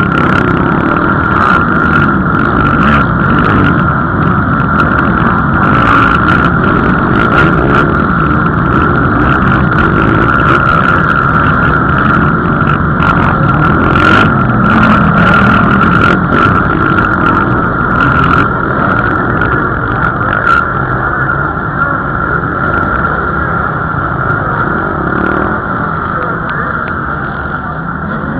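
Motocross bike engines racing around the track, their pitch rising and falling as the riders rev and shift, with many short sharp clicks over it.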